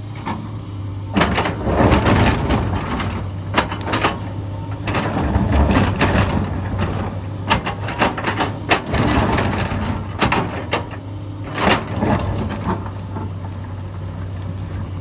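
Excavator engine running steadily under a string of sharp cracks, knocks and crunching of rock and soil as the machine digs. The crunching comes in bunches and dies away near the end.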